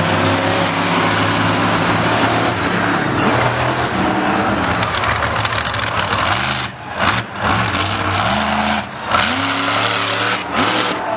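A loud vehicle engine revving up and down. The throttle is lifted sharply about four times in the second half, each time followed by a rising rev.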